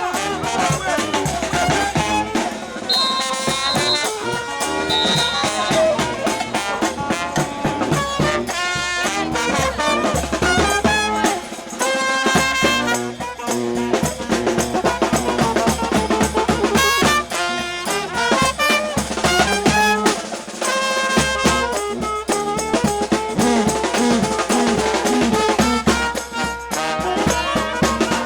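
New Orleans brass band playing a second line: trumpets and trombones over snare and bass drum, with a steady driving beat.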